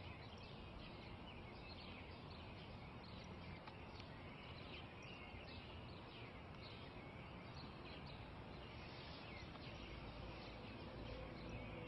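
Faint birdsong over a steady outdoor hiss: small birds giving many short chirps, several a second.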